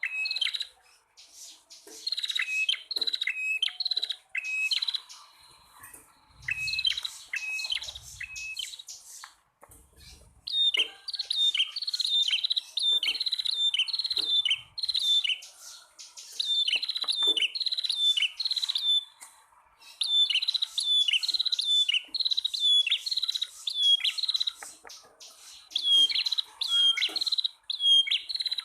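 Prenjak tamu, a small prinia, calling: runs of sharp chirps, several a second, each note dropping quickly in pitch, with short pauses between runs.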